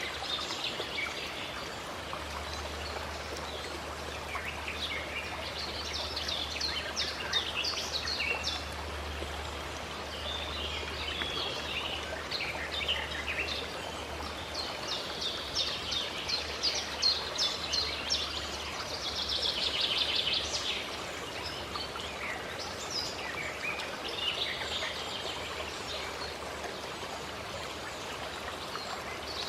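Birds chirping and calling over the steady rush of flowing water, with a dense burst of rapid chirps about two-thirds of the way through.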